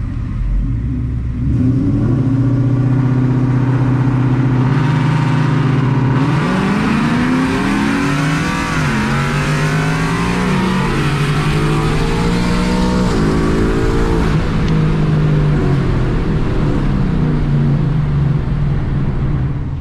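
Car engine held at steady revs, then pulling hard under full acceleration from about six seconds in, its pitch climbing and dropping back at each of several gear changes.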